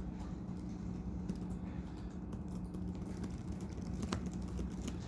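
Irregular clicking of laptop keyboards being typed on, over a steady low room hum.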